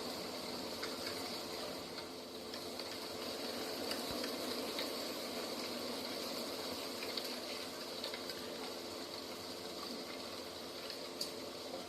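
Steady rushing outdoor nature ambience with a faint steady hum underneath, a few soft ticks, and one sharp click near the end.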